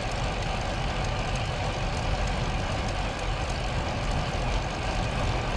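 Steady wind noise rumbling over the microphone of a moving bicycle in a crosswind.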